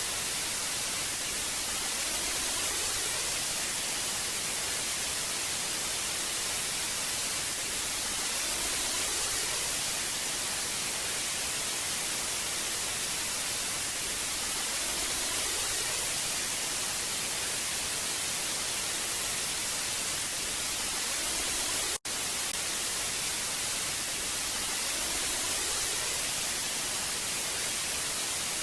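Analog TV static: a steady, even hiss, strongest in the treble, with a faint slow swell every few seconds and a momentary break about three quarters of the way through.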